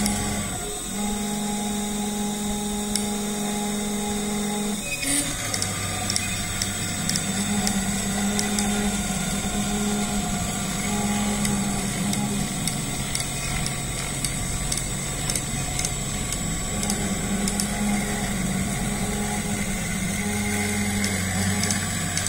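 DIY CNC milling machine running: a steady high spindle whine over low motor tones that shift between a few fixed pitches every few seconds as the machine changes speed and direction.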